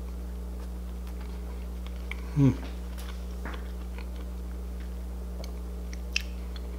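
A person chewing a mouthful of corn dog muffin, soft mouth sounds, with a brief hummed "mm" about two and a half seconds in and a small click near the end. A steady low hum runs underneath.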